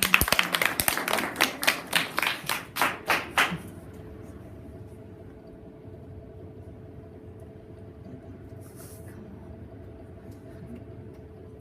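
A few people clapping, irregular claps that stop after about three and a half seconds, followed by a faint steady hum.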